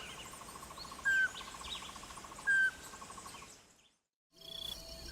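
Wild birds calling: a short clear whistled note sounds three times, about a second and a half apart, over a fast pulsing trill and scattered higher chirps. It all fades out about four seconds in, and a faint new background comes up just after.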